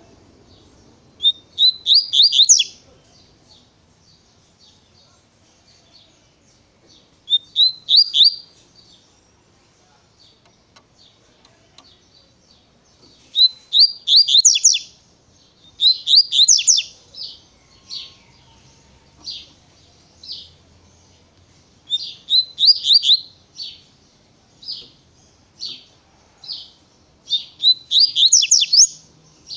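Double-collared seedeater (coleiro) singing in the 'tui tui' song style: six bursts of quick, high notes, with single short notes about a second apart between some of the bursts.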